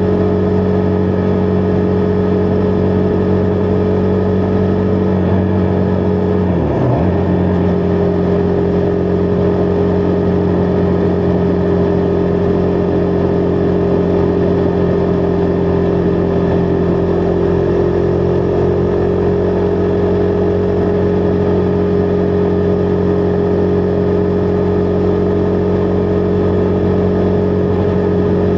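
Husqvarna Vitpilen 401's single-cylinder engine running steadily under way. About seven seconds in the revs drop sharply and pick up again.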